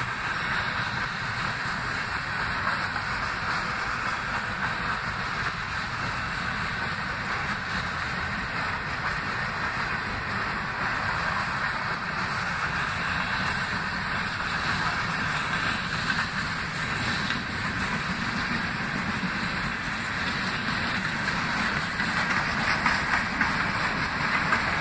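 Freight train cars rolling past, steel wheels running steadily on the rails, a little louder near the end.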